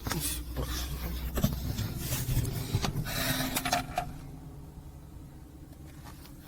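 Lada VAZ-2112 car engine idling, with a few knocks and clicks over a steady low rumble. It runs to circulate an oil additive just poured in against low oil pressure at idle. About four seconds in it gets quieter.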